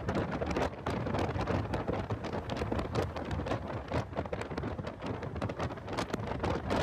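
Heavy wind buffeting on a camera microphone in a car at track speed: a constant rumble broken by irregular crackling pops.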